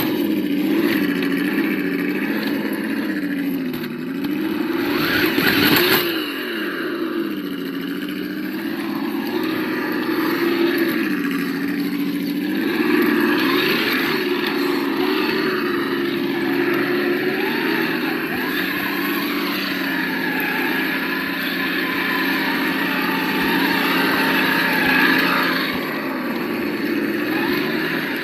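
Simulated engine sound from the sound module of an Absima Yucatan 1:8 RC crawler, its pitch rising and falling with the throttle. There is a short burst of rushing noise about five seconds in.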